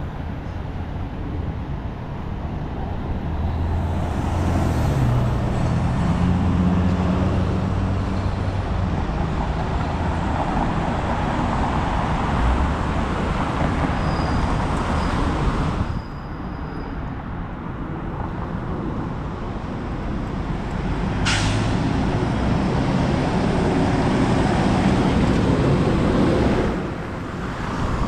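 City street traffic: the steady rumble of buses and cars passing, with engine hum rising and falling. The traffic noise drops suddenly about halfway through, and a short, sharp hiss of air brakes comes a few seconds later.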